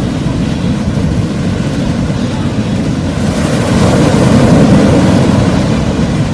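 Large shorebreak waves breaking and washing up the beach, with wind on the microphone. The surf builds to its loudest about four to five seconds in, then eases slightly.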